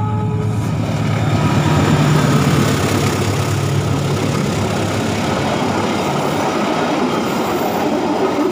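Diesel locomotive of the Argo Parahyangan passenger train passing close by: a deep engine hum loudest about two seconds in, with the last of its horn fading at the start, then the steady rush of the coaches' wheels on the rails.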